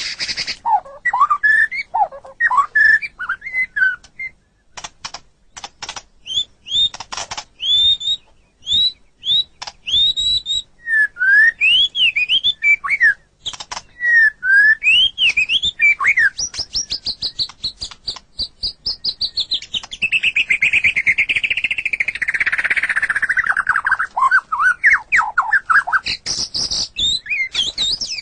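White-rumped shama (murai batu) singing a varied song: clear whistled notes that swoop up and down, bursts of short harsh rattling notes, and a long fast trill that slides down in pitch about two-thirds of the way through.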